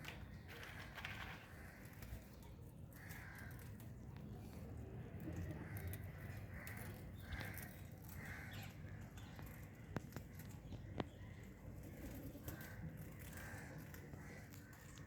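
Birds giving short, harsh calls repeated every second or so, with two sharp clicks about ten and eleven seconds in.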